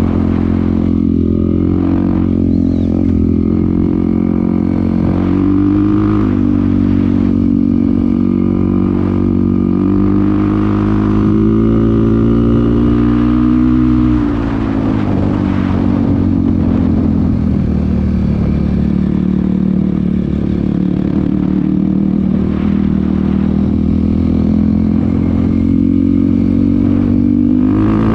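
Dirt bike engine running under way, its revs rising and falling. It eases off sharply about halfway through and builds back up near the end.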